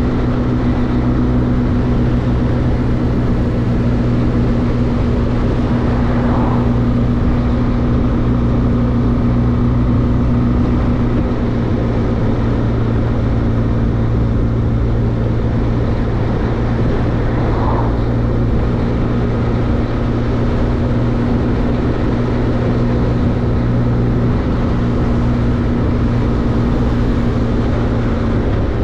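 Benelli TRK502X's parallel-twin engine running at a steady cruising speed, its pitch unchanging, over a constant rush of wind and road noise.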